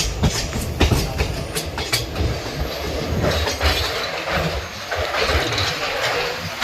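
Moving train running on the rails: a steady rumble with irregular sharp clicks and clatter from the wheels over the track.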